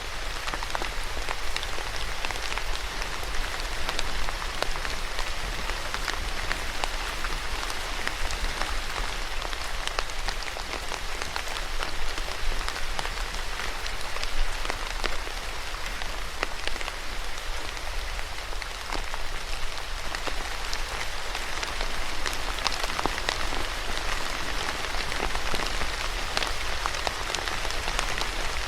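Steady rain falling and pattering on a surface, with many sharp individual drop ticks among the even hiss. A faint low hum runs under it.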